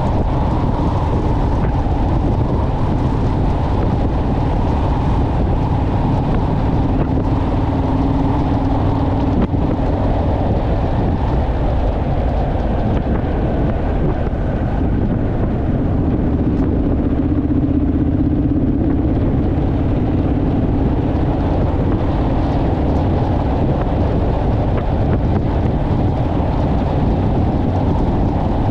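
Honda Rebel motorcycle engine running at cruising speed, a steady drone whose pitch rises and falls slightly, with wind rumbling over the microphone.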